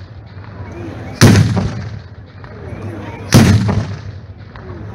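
Loud fireworks bangs: two heavy booms about two seconds apart, each with a short rumbling tail, in a steady run of shots.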